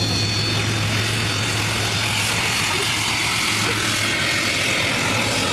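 Steady engine noise: a low hum under a broad hiss, with no change in level.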